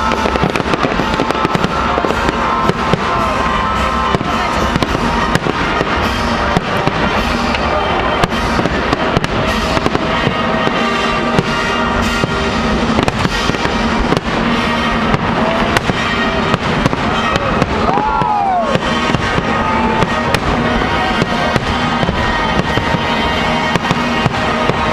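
A fireworks display going off without a break: a dense run of bangs and crackles, with music and crowd voices underneath.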